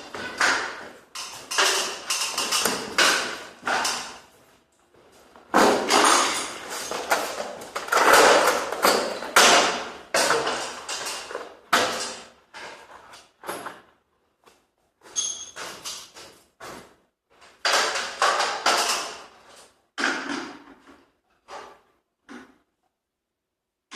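Irregular knocks, bangs and clatters at an uneven pace, densest in a run of several seconds about a quarter of the way in, then thinning out, with a quiet gap near the end.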